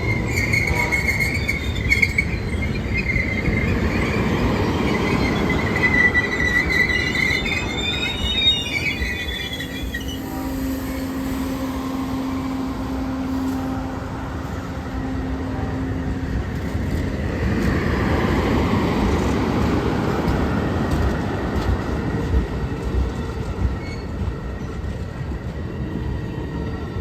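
Train rolling past, its wheels squealing on the rails for roughly the first nine seconds, then the steady noise of the cars running over the track.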